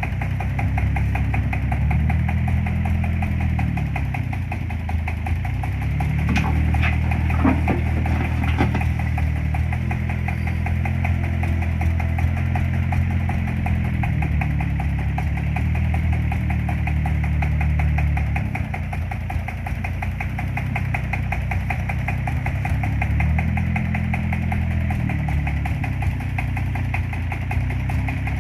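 A small engine running steadily with a fast, even firing beat, its pitch rising and falling slowly several times as it is revved up and eased off.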